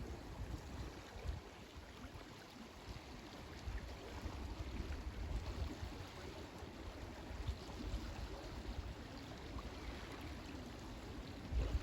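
Ocean water washing steadily along the shore, with wind gusting on the microphone as an uneven low rumble.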